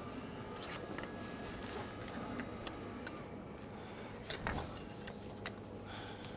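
Faint, irregular small clicks and taps from handling tools and bicycle parts, with one sharper knock about four and a half seconds in, over a steady low hum.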